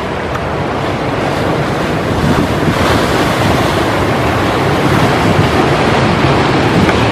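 Ocean surf washing on the shore, with wind buffeting the microphone. A wave swells louder about three seconds in.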